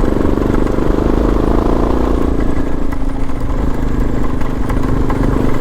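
Suzuki DR650's single-cylinder four-stroke engine running under way at steady revs, easing off a little about halfway through.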